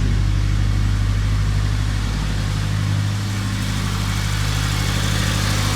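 Turbocharged Honda Integra Type R engine idling steadily on its first start-up after the turbo build.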